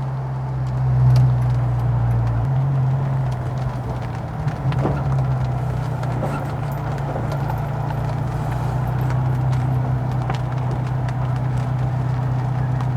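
Honda S2000's engine running steadily at low speed with a low drone. A deeper rumble underneath drops away about two seconds in.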